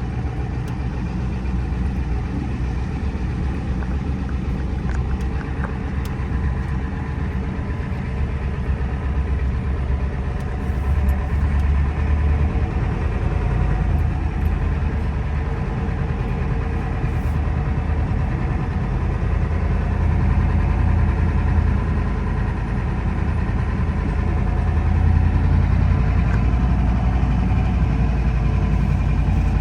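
Pickup truck engine running steadily, a low rumble that grows slightly louder about halfway through.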